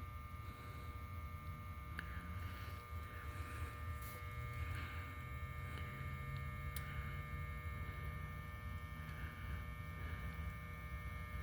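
Heat pump unit running: a steady low electrical hum with several faint constant high tones and a few light ticks.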